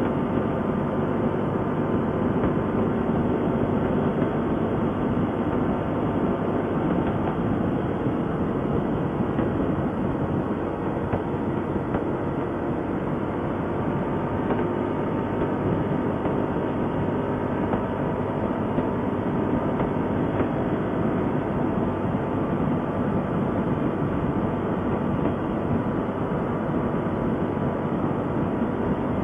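ATV engine running steadily while under way, a dense continuous rumble with mechanical rattle.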